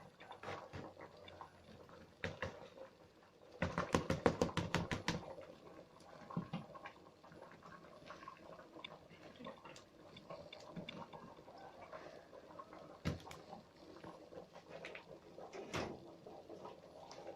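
Kitchen clatter while cooking: a fast run of about a dozen sharp taps, roughly eight a second, about four seconds in, then scattered single clicks and knocks over a low background.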